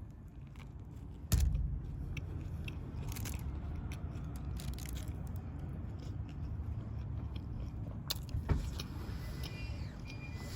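A person biting into and chewing a meatball sub, with small wet clicks of chewing. A steady low rumble runs underneath, and two sharp knocks come about a second in and near the end.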